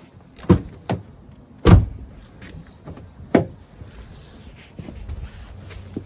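Land Rover Freelander 2 door handles and latches clunking: four sharp clunks, the loudest about two seconds in. The doors are being tried after a single unlock press of the remote, to test the repaired central locking.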